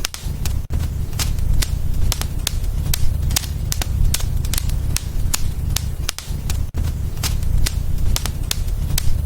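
Wood fire in a fireplace crackling, with several sharp pops a second over a steady low rumble.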